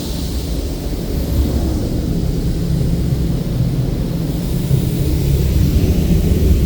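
Belanger Kondor KL2 touchless car wash doing its high-pressure rinse: a steady rushing spray of water over a deep rumble, getting slightly louder near the end.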